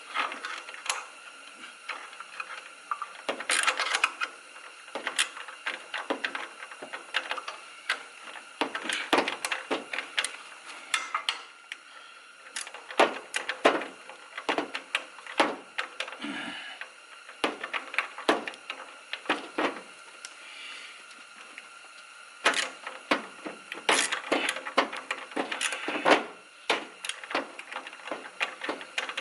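Irregular metallic clicks and clinks of a socket and wrench on a bolt that will not start threading, with a sparser stretch in the middle.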